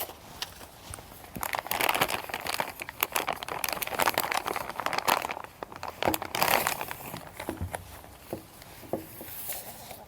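Plastic packaging wrap crinkling as it is handled and opened, in several spells of rustling, lighter toward the end.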